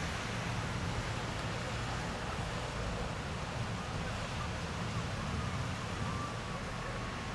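Heavy rain pouring down steadily in a thunderstorm downpour, an even hiss with no thunderclap. A faint wavering high tone sounds behind it in the second half.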